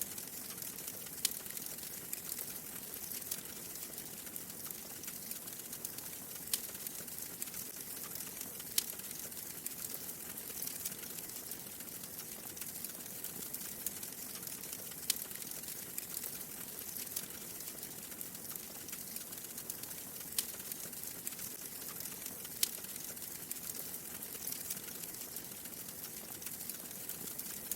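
Wood fire in a fireplace crackling, with a steady hissing bed and sharp single pops every second or two.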